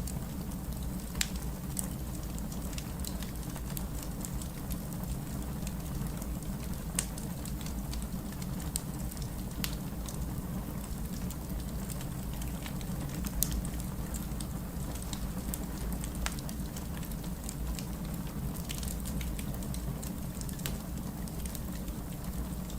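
Wood fire crackling in a fireplace: a steady low rumble with scattered sharp pops every few seconds.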